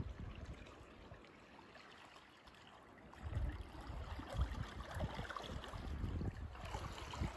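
River water lapping and gurgling around a canoe close beside a concrete bridge pier, faint at first and livelier from about three seconds in, with low uneven rumbles.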